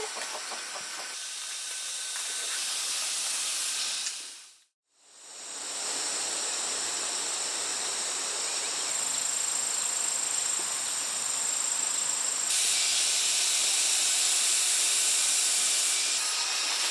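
Steady hissing noise that fades out to silence just before five seconds in and fades back up, growing brighter twice later on.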